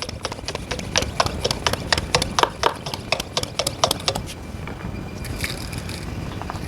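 Hand-pump garden sprayer being worked by hand to mix and pressurise it: a fast, even run of plastic clicks and knocks, about three to four a second, that stops about four seconds in.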